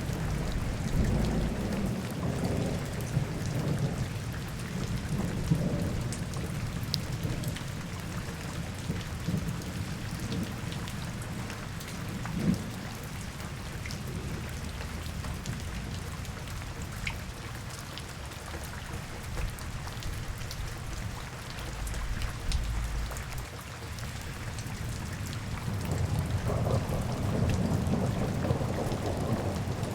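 Steady rain falling, with fine drop ticks throughout. A low rolling rumble swells in the first few seconds, fades, and builds again near the end.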